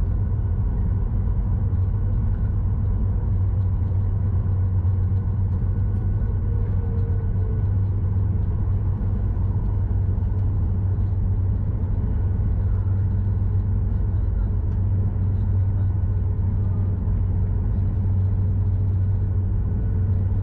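Steady low rumble inside the cabin of a Boeing 737 MAX 8 taxiing after landing, its CFM LEAP-1B engines at idle, with faint steady tones running above the rumble.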